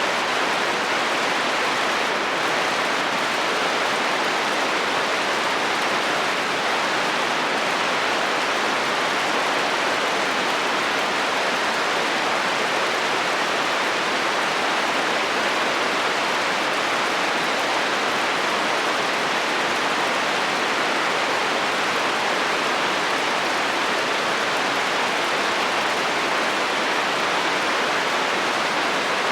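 Heavy rain falling steadily on a metal roof, a dense, even patter with no thunder.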